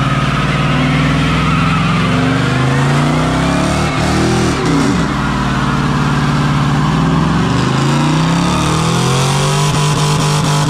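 A car engine revving hard and running loud, its pitch climbing and falling repeatedly, with a sharp drop and recovery about four to five seconds in and another rise near the end.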